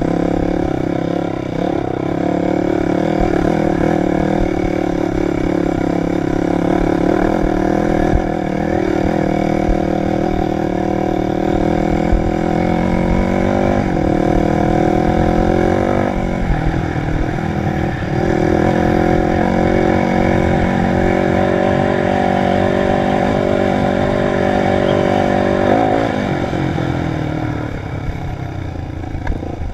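Dirt bike engine running under load on a trail ride, its pitch climbing as it revs and dropping sharply at a gear change about halfway through, then easing off near the end.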